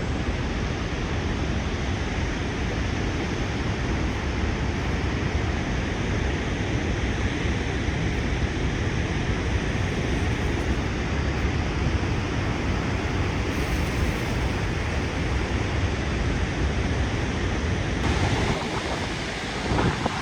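Niagara Falls' water rushing in a steady, unbroken roar, with no break or rhythm; the deep part of the roar eases slightly near the end.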